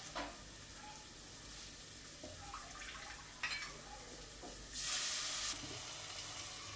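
Chopped tomatoes frying in a clay pot: a faint sizzle with a few small knocks of kitchenware. About five seconds in, a louder hiss lasts about half a second as the pot's clay lid comes off.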